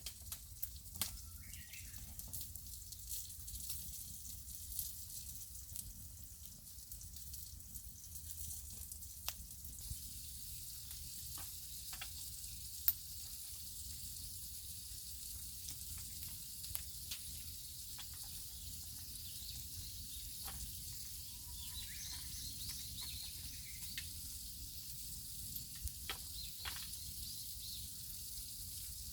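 Clams sizzling on a grill over a wood fire: a steady hiss with scattered sharp crackles and pops, one sharper pop about halfway through.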